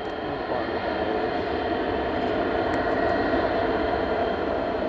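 Jet airliner's engines, a steady rush that grows slightly louder as the plane lands.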